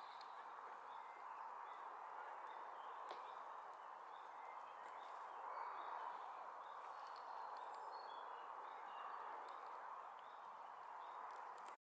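Faint outdoor ambience: small birds chirping in short, high, repeated notes over a steady hiss. The sound cuts off abruptly near the end.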